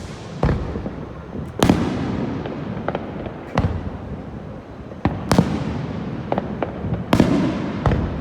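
Aerial fireworks shells bursting overhead: about six sharp bangs one to two seconds apart, each trailing into a lingering low echo, with a few smaller cracks between.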